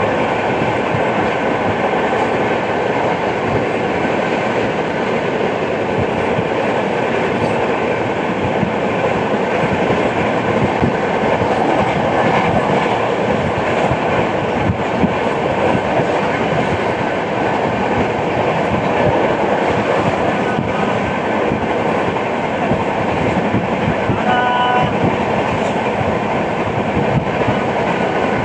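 Passenger coach of an Indian Railways express running at speed: steady rolling noise with wheels clattering over the rails, which the uploader presents as a flat-wheel sound. A short pitched tone sounds briefly near the end.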